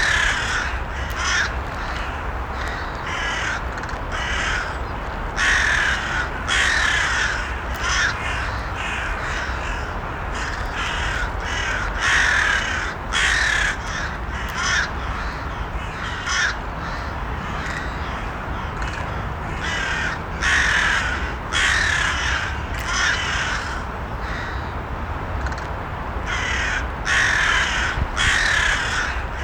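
Crows cawing over and over, harsh calls coming in bouts about a second apart, over a steady low rumble.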